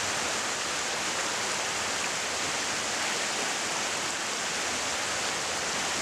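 A steady, even rushing noise with no pitch and no separate events.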